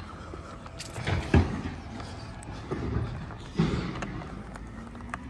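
A few heavy knocks and clanks over a low steady engine rumble, loudest about a second and a half in, with another near the end.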